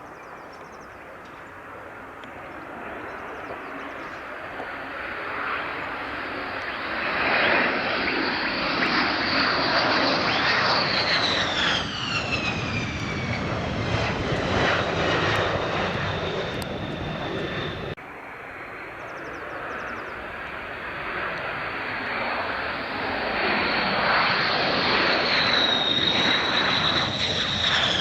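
Military jet passing, its engine noise building over several seconds to a loud peak, with a high whine falling in pitch as it goes by. The sound breaks off abruptly about two-thirds of the way through, then a second jet builds up the same way, its whine dropping near the end.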